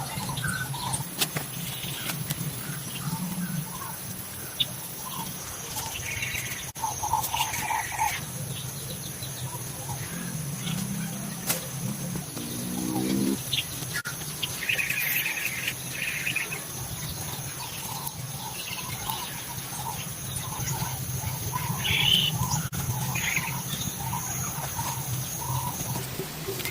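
Rainforest ambience: birds calling in short chirps and phrases over a steady high-pitched hum that stops near the end.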